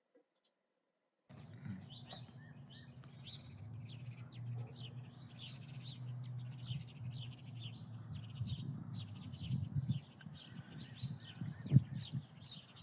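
Songbirds chirping over a low, steady rumble of outdoor background noise, coming in about a second in; near the end a single sharp knock is the loudest sound.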